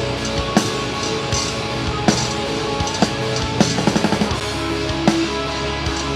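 Live metal band playing an instrumental passage: sustained heavy guitar and bass tones under a drum kit, with a quick run of drum hits about four seconds in.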